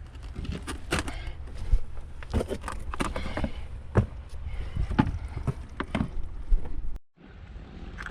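Irregular knocks and clicks of handling, hard objects tapping and clattering, over a low wind rumble on the microphone. The sound cuts out briefly about seven seconds in, then resumes.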